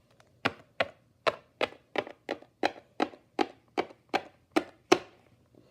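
A quick, even run of about fourteen sharp knocks or taps, roughly three a second, which stops about five seconds in.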